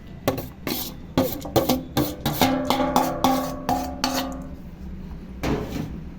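A utensil knocking and scraping against a bowl while onion is tipped in over the cauliflower: a quick run of sharp knocks, with the bowl ringing from about two seconds in until shortly before the end, then one longer scrape near the end.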